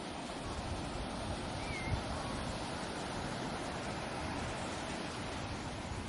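Ocean waves on a beach: a steady wash of surf. A brief faint high call rises and falls about two seconds in.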